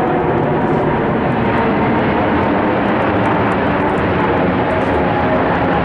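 Emirates Airbus A380-842 airliner descending overhead, its four Rolls-Royce Trent 900 turbofans making loud, steady jet noise with faint whining tones on top.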